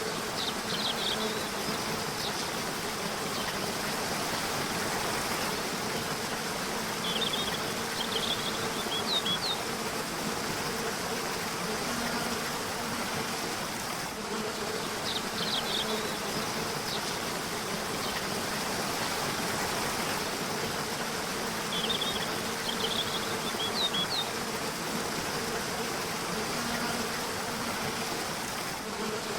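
Steady rush of flowing river water, with a faint steady low buzz underneath. Brief clusters of short, high bird chirps come every several seconds.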